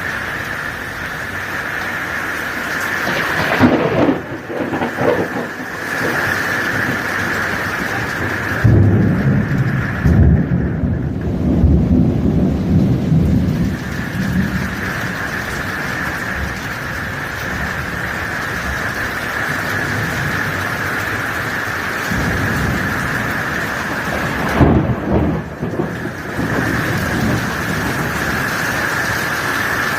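Heavy rain falling steadily in a thunderstorm, with thunder rumbling three times: a crackling peal about four seconds in, a longer rolling rumble from about nine to fourteen seconds, and another crackling peal near the end.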